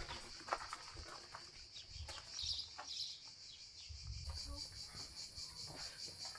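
Insects buzzing steadily in a high pitch, the buzz turning into a rapid even pulsing about four seconds in. A couple of short bird chirps around the middle, and soft footsteps underneath.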